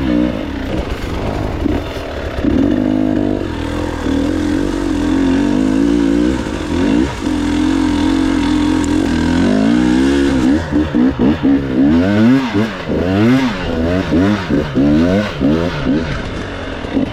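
Enduro motorcycle engine revving hard under load, mostly held high at first. From about ten seconds in, the throttle is worked on and off in quick bursts, so the pitch rises and falls again and again.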